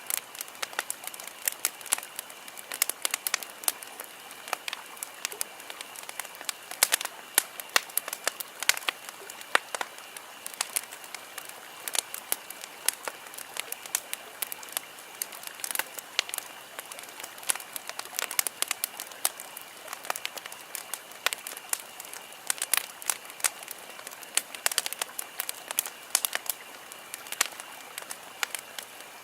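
Wood campfire crackling and popping: dense, irregular sharp snaps over a steady hiss of burning, with a faint steady high tone underneath.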